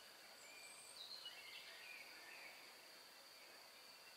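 Near silence in woodland: faint birdsong, a few short thin whistled phrases, over a steady faint high-pitched tone.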